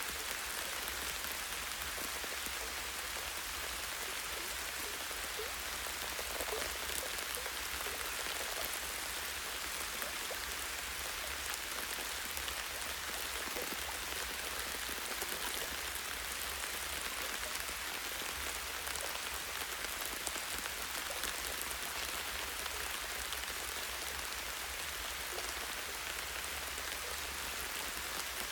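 Light, steady rain falling on tree branches and leaves: a dense, even spread of small drops that does not change.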